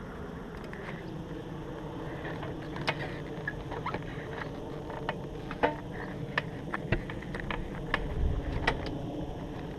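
Scattered sharp clicks and light knocks of metal parts and tools being handled during an engine teardown, over a low steady hum.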